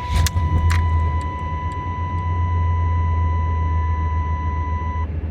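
1993 Chevy Silverado C1500's 350 V8 catching as it is started, then idling steadily, with a couple of sharp clicks at first. A steady high-pitched warning tone sounds alongside and stops near the end.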